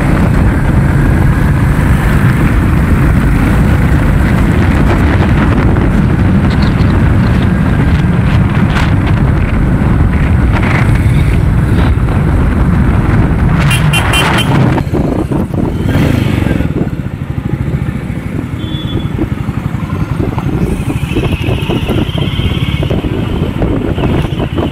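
Royal Enfield motorcycle's single-cylinder engine running at road speed while riding, heard from the rider's seat. It gets quieter about two-thirds of the way through.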